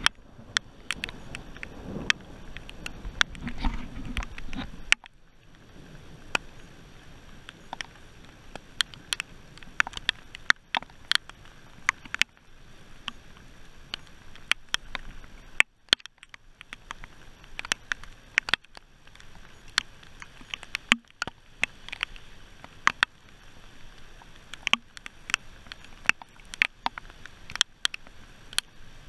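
Scattered heavy raindrops tapping on a thin aluminium boat hull: sharp, irregular taps, a few a second, against a quiet background. Low wind noise sits under the taps for the first few seconds, then stops abruptly about five seconds in.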